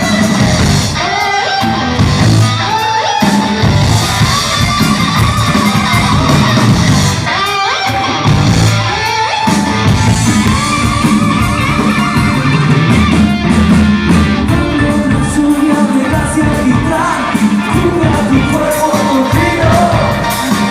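Rock music: a band with guitar and a singing voice.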